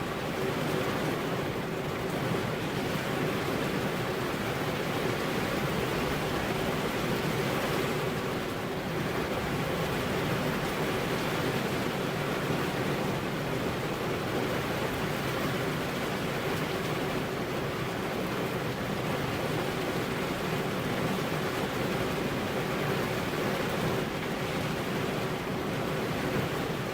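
Steady heavy rain, an even, continuous hiss with no thunder or other distinct sounds.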